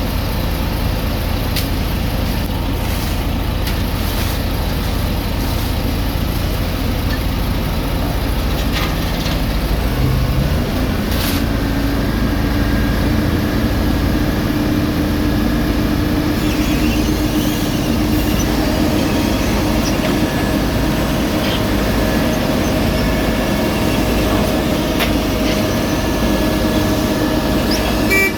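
Heavy diesel construction machinery running steadily, with a steady whine joining in about eleven seconds in.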